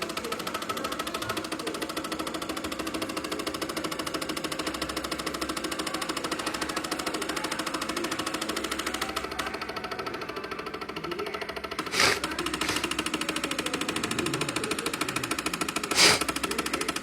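Stepper motors of a small Arduino-run GRBL CNC machine running, a steady buzzing whine with fast fine pulsing. Two sharp knocks stand out, four seconds apart, in the second half.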